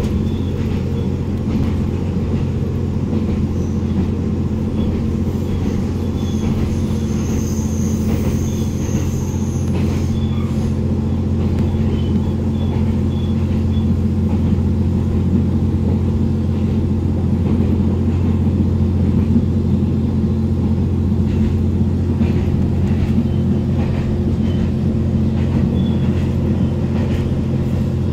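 Diesel railcar running at steady speed, heard from inside the passenger cabin: an even low hum from the engine and running gear.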